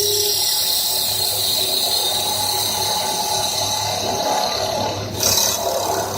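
CNC wood lathe running: a steady whine with a hiss over it. Just after five seconds in, the high hiss briefly drops out and then comes back louder for a moment.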